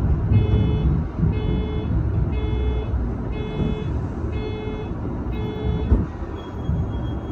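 Cab interior of a Shizuoka Railway A3000-series electric train rolling slowly into a station: a low running rumble, with an electronic beep repeating about once a second that stops about two-thirds of the way in. A single sharp thump follows just after the beeping stops.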